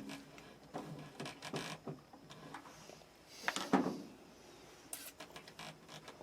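Scattered clicks and rubbing of metal parts and tools being handled on an electric water heater during element and thermostat replacement, with one louder scrape about three and a half seconds in.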